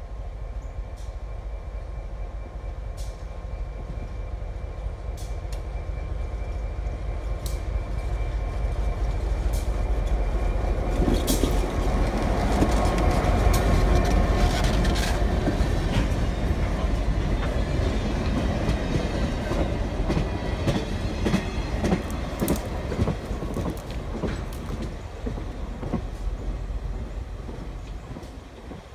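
Short freight train passing close by: a diesel locomotive rumbling louder as it draws near and goes by about 12 to 14 seconds in, then hopper cars and a caboose rolling past with wheels clicking over the rail joints, fading near the end.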